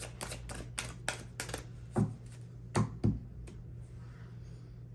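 Tarot deck being shuffled by hand: a quick run of light card clicks for about a second and a half, then three louder knocks around two and three seconds in.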